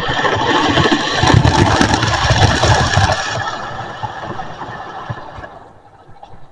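Model train running along the track: the locomotive's motor hum and the rattle of wheels on rail joints, loud for the first few seconds and then fading away as the train moves off.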